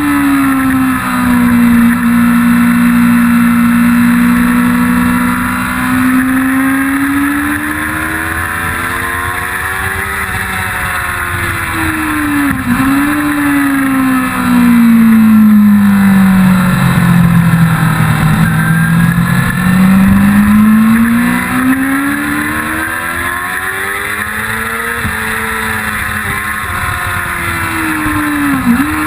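1999 Yamaha R6's inline-four engine at full track speed, its note rising and falling slowly as it is ridden through corners, with brief sharp dips at gear changes, about 13 s in and near the end, over steady rushing wind.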